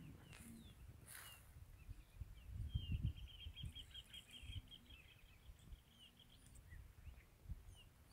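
Faint bird calls: a few short high chirps and a rapid trill lasting about two seconds, starting about three seconds in, over irregular low rumbles.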